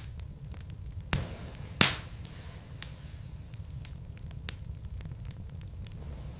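Logs burning in a fireplace, crackling with many small ticks over a low steady rumble, with two loud sharp pops a little after a second in and just before two seconds in.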